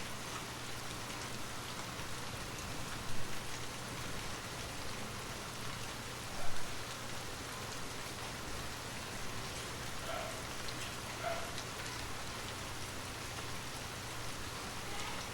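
Steady rain falling, an even patter of rain on a surface, with two brief louder hits about 3 and 6.5 seconds in.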